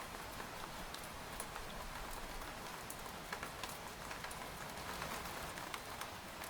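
Steady rain with individual drops pattering on a tent, sharp drop ticks scattered over a constant hiss.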